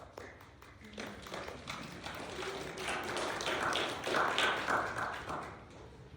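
People moving about in a church: a run of light taps and knocks with rustling and shuffling that grows louder through the middle, then fades.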